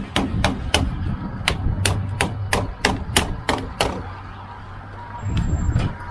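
A rapid, even run of sharp knocks, about three a second, that stops about four seconds in. A steady low hum runs underneath.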